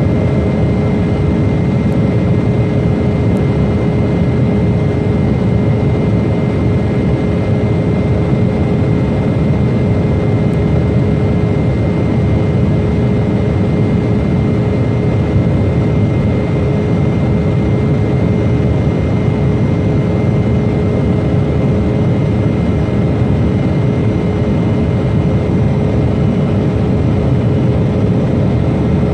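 Jet airliner engines running steadily: a constant loud rumble with a steady hum and a higher whine that neither rise nor fall.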